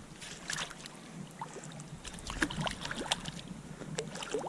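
Irregular splashing and trickling of water in the shallows, with quick small splashes.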